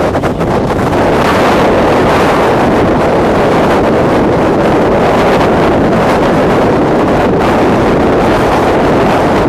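Storm-force mountain wind buffeting the microphone: a loud, steady rush of wind noise that grows a little stronger about a second in.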